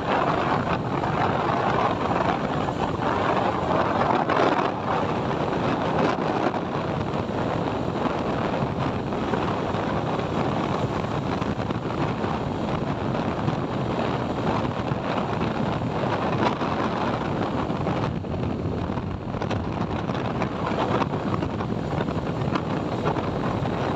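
Steady wind rush over the microphone of a motorcycle riding at road speed, with the sound of the moving bike and road underneath.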